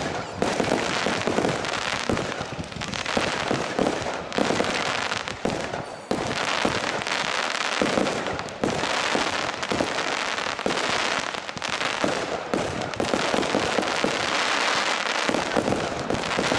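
Professional fireworks display: a dense, continuous barrage of bangs and crackling, many reports overlapping each other.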